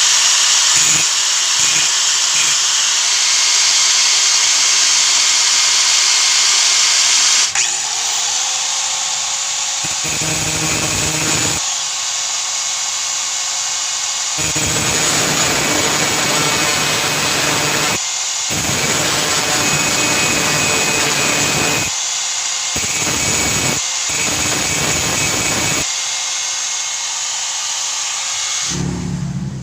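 Small electric drill running, steadily for about ten seconds and then in a series of bursts with short pauses, as a homemade pilot jet is drilled and shaped for a motorcycle carburettor.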